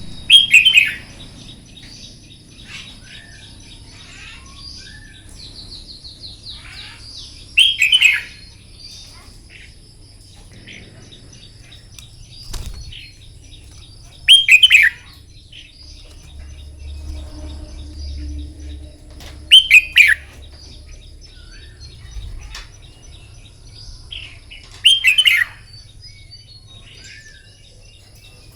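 Red-whiskered bulbul singing: five loud, short, falling song phrases, repeated about every five to six seconds, over a steady high insect drone and fainter bird chirps.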